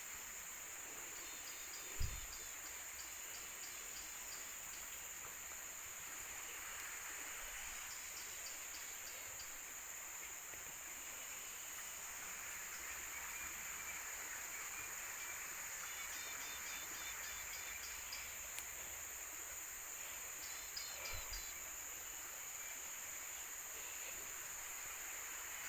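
Steady high-pitched drone of tropical insects, with several short bursts of quick repeated chirps. There is a brief low thump about two seconds in and another about 21 seconds in.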